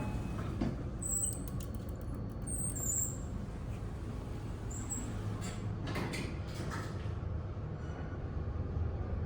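Elevator car in service: a steady low rumble, with a few short high squeaks about one to three seconds in and a cluster of clicks around six seconds in.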